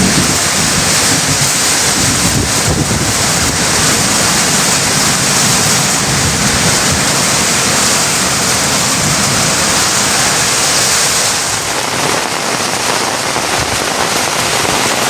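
Heavy rain pouring steadily in a dense hiss, with the tail of a low thunder rumble dying away at the start.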